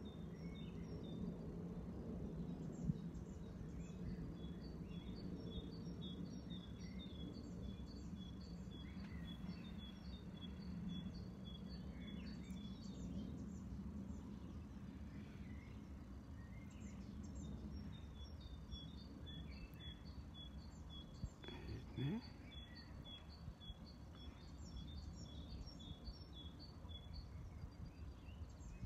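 A small bird singing long runs of quick, high, repeated chirps, with pauses of a few seconds between runs, over a steady low background hum of outdoor noise. A brief low rising whine with a few clicks about twenty seconds in.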